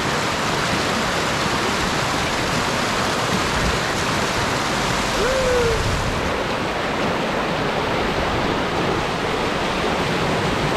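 Steady, loud rushing noise with no breaks, with a brief tone rising and falling once about five seconds in.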